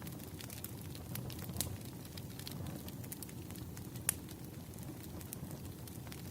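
Firewood burning with a low rumble and irregular sharp crackles and pops, a louder pop about four seconds in.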